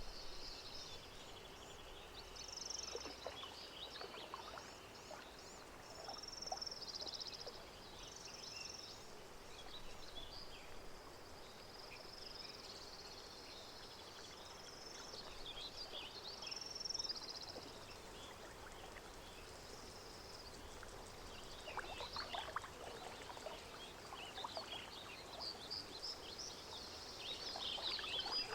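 Lakeside nature ambience: birds chirping and calling over a soft, steady background, with small water lapping and splashing sounds that gather about three-quarters of the way through and again near the end.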